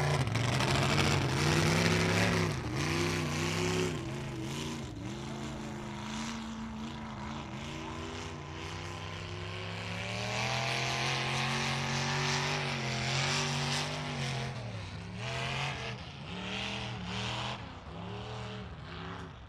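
Mud truck's engine running hard through a mud pit, the revs swinging up and down again and again as the driver works the throttle, held high and steady through the middle, then choppy near the end, with a hiss of tyres and mud spray over it.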